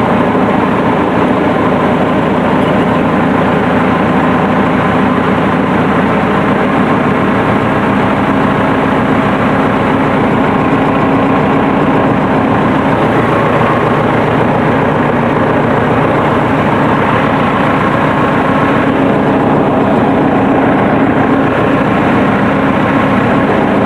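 Massey Ferguson Super 90 diesel tractor engine running steadily at an even speed.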